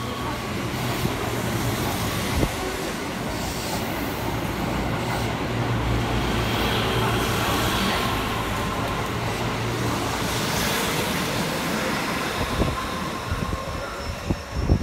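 Keihan 3000-series electric train running into the station past the platform: a steady rumble of wheels on rail with a low motor hum. Near the end the rumble gives way to scattered knocks and clatter.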